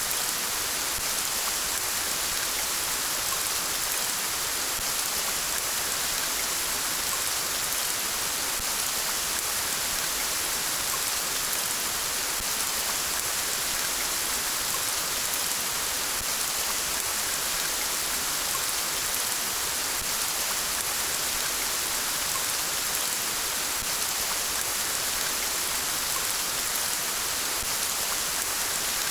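Steady rainfall: an even hiss of rain with fine, scattered drop ticks, unchanging throughout.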